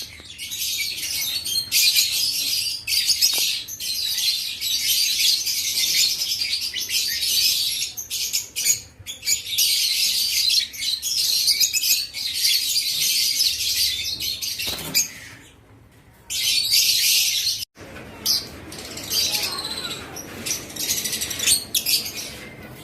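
A flock of lovebirds chattering with a dense stream of shrill chirps, with a short lull about two-thirds of the way through.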